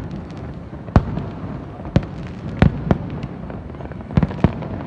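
Fireworks display: about seven sharp bangs of bursting shells at uneven spacing, roughly one a second, over a steady low rumble of further explosions.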